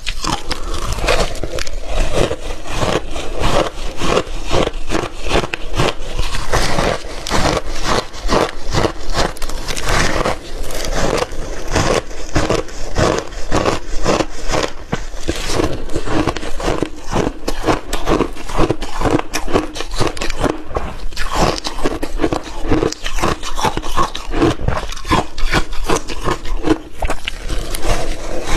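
Frozen milky shaved ice being bitten and chewed close to the microphone: a continuous run of rapid, crisp crunches and cracks.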